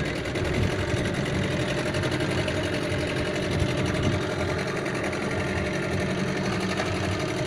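Boat engine running steadily during the crossing, an even, unchanging drone.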